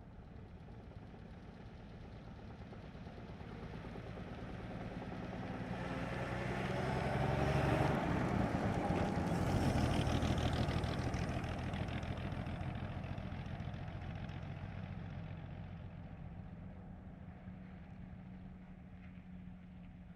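1937 Plymouth, with its flathead straight-six engine, driving past at medium speed. The engine sound builds to a peak about halfway through, drops slightly in pitch as the car goes by, then fades away.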